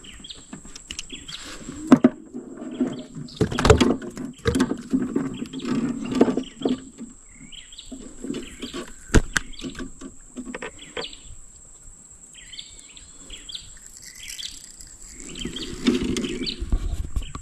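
Birds chirping again and again, over scattered knocks and handling noises.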